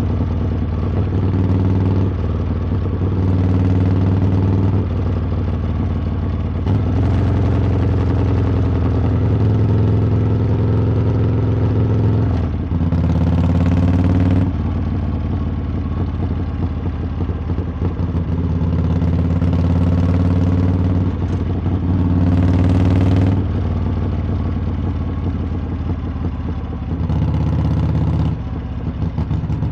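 Harley-Davidson V-twin exhaust while riding. The engine note steps up and down as the throttle opens and closes, with louder, brighter revs about 13 and 22 seconds in.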